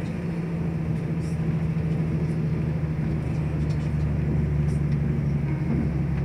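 Inside a moving CrossCountry diesel train: a steady low engine hum over the rumble of the wheels on the track, with a few faint clicks now and then.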